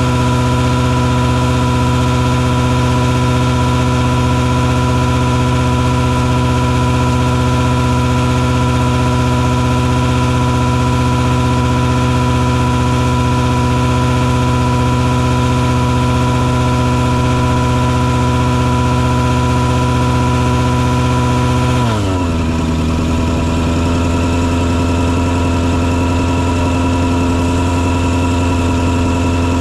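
Engine of a truck-mounted mosquito-fogging rig running steadily at a high, even speed. About 22 seconds in its speed drops quickly, and it settles at a lower, steady pitch.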